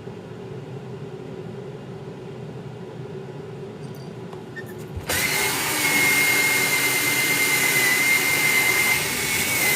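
A small electric motor tool switches on abruptly about five seconds in and runs steadily, with a loud rush of air and a high, even whine.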